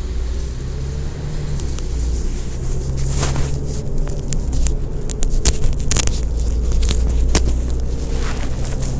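City transit bus engine running under way, heard from inside the bus, a steady low hum that grows slowly louder, with scattered sharp clicks and rattles.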